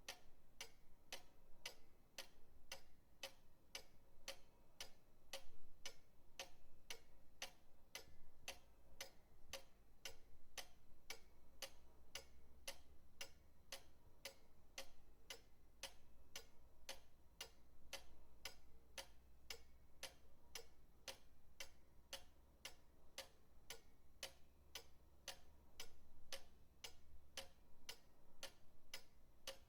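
Pendulum clock ticking steadily, about two even ticks a second, over a faint low hum.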